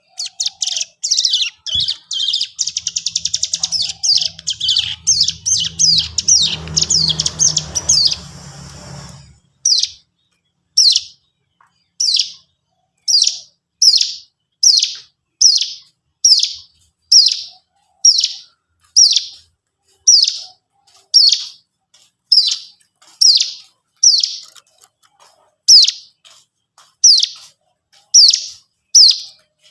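Cigun songbird song used as a bait recording: a dense run of rapid high chirps and a fast trill with a low hum underneath. Then, about nine seconds in, it settles into single sharp falling chirps about once a second.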